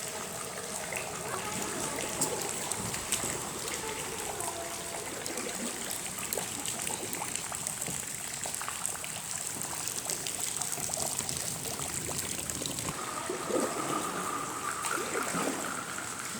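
Spring water dripping and trickling inside a flooded underground mine, a steady patter of small drips.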